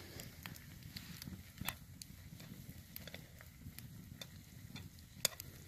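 Wood campfire crackling, with scattered sharp snaps and one louder pop near the end, over the low steady bubbling of ramen boiling hard in a frying pan set on the fire.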